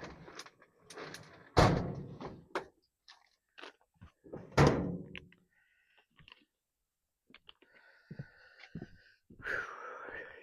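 Parts and tools being handled on a workbench: a run of clicks and knocks with two loud thunks, about a second and a half and four and a half seconds in, then scraping and rustling near the end.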